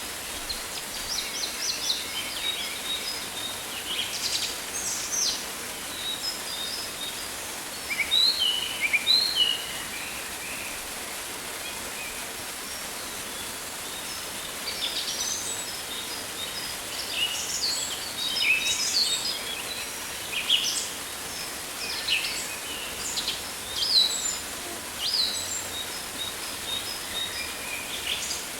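Rainforest ambience: a steady hiss of rain or water beneath many birds calling, short chirps and quick sweeping whistles coming in clusters, with a lull in the middle.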